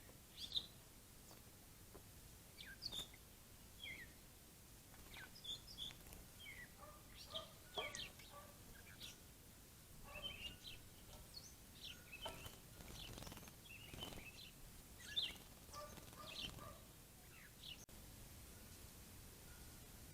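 Faint, scattered short bird chirps and calls, one after another, from small songbirds at a bird bath.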